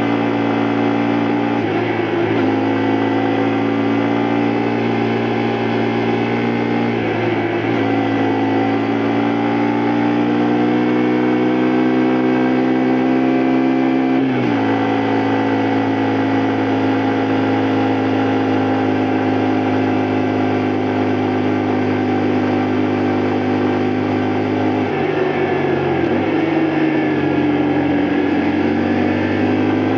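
Honda Varadero 125's small V-twin four-stroke engine running under way on a ride, held at fairly steady revs with a few brief changes in pitch, the largest about halfway through, then a dip and climb in revs near the end.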